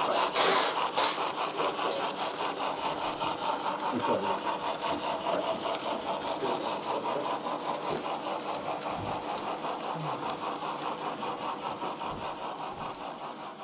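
Sound decoder in a model steam locomotive playing rapid, even steam chuffs through its small speaker, with a burst of steam hiss near the start. The chuffs fade gradually towards the end.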